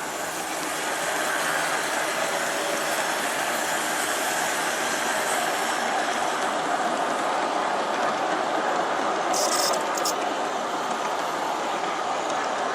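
G scale model train, four USA Trains F3 diesel units pulling eleven passenger cars, running along the track: a steady rolling rumble of wheels and motor gearing that grows louder about a second in. A brief high hiss comes about three-quarters of the way through.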